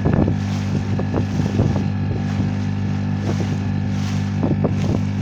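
Small boat's petrol outboard motor running steadily underway, a low even drone, with a few short thumps over it.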